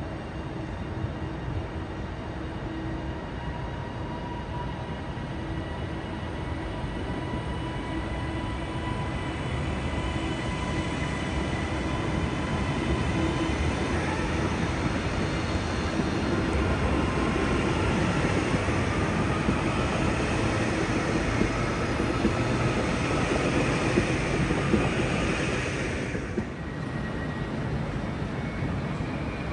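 A train running at a station: a steady rail rumble with a faint whine, growing louder through the middle, then dropping away suddenly near the end.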